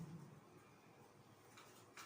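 Near silence in a small room, with a faint soft knock at the start and a faint brief brushing sound near the end.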